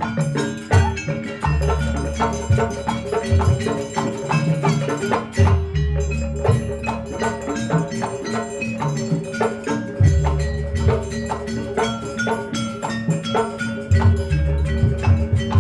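Javanese gamelan-style accompaniment for a barongan dance: ringing struck metallophone and gong tones over dense drum strokes, playing continuously at a quick, busy pulse.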